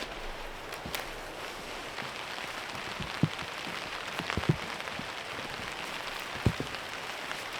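Steady rain falling, an even patter with a few sharper low knocks of single heavy drops landing about three, four and a half, and six and a half seconds in.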